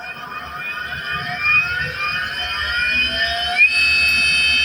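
BLDC electric motor driven by a freshly repaired 60-volt controller, spinning up under throttle: its electric whine rises steadily in pitch, then about three and a half seconds in settles at a steady higher pitch. The motor running smoothly shows that the repaired drive section works.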